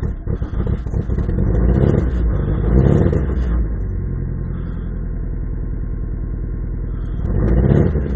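Mitsubishi Eclipse RS's 420A four-cylinder engine catching after cranking, then running rough-and-cold and being revved about two to three seconds in and again near the end, settling to a steady idle in between. The engine is hard to start when cold.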